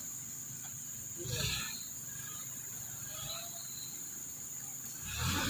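Steady high-pitched insect drone. A brief louder sound comes about a second and a half in, and a louder low sound starts near the end.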